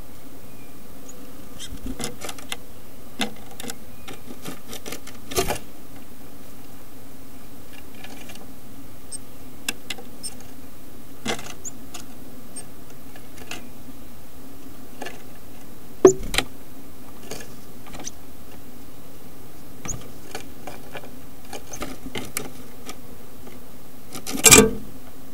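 A chickadee moving about inside a wooden nest box: irregular scratching and tapping on the wood, close to the microphone, over a steady low electrical hum. A sharp knock comes about two-thirds of the way through and a short louder scuffle near the end.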